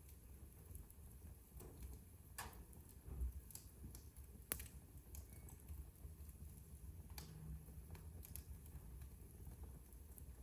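Wood fire in a fireplace crackling faintly, with scattered sharp pops, the loudest about four and a half seconds in, over a low steady rumble.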